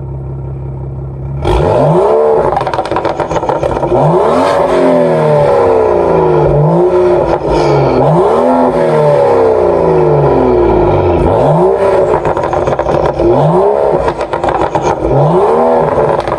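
BMW M235i's turbocharged 3.0-litre inline-six, breathing through a Fabspeed sport catalytic converter and AWE Tuning exhaust, idling, then revved over and over from about a second and a half in, its pitch climbing and falling roughly every two seconds.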